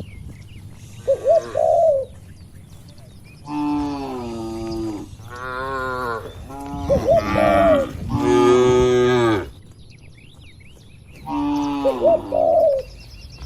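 Cattle mooing in a pen: several long, low moos, one after another, with pigeons cooing in between and small birds chirping faintly.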